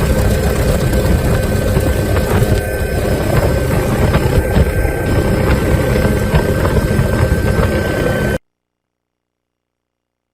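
Helicopter engine and rotor noise, steady, with a thin steady whine over it; it cuts off suddenly about eight seconds in, leaving silence.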